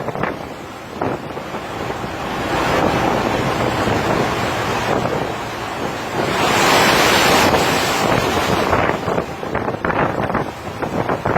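Storm wind buffeting the microphone over heavy seas breaking onto a ship's stern deck. The noise swells and peaks in a loud rush of water about seven seconds in, then turns to rough, gusty crackling near the end.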